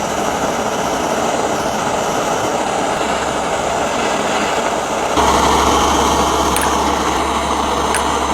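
Steady, loud mechanical noise like a running machine or engine, its sound shifting abruptly about five seconds in, when a low hum comes in.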